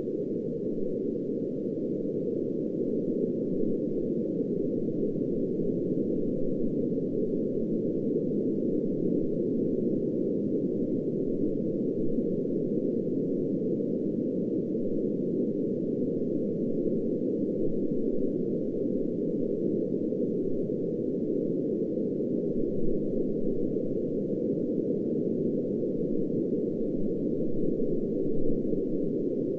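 Steady synthetic noise, cut off above about 600 Hz so it sounds deep and muffled, with no tones or rhythm. It is a low-filtered variant of the pink noise it is labelled as.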